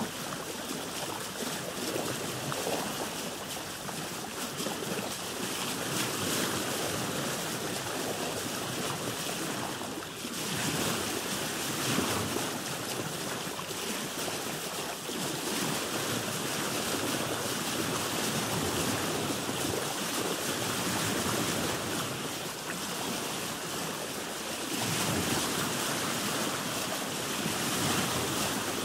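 Sea water washing and splashing around a boat: a steady rush of waves that swells and eases every few seconds.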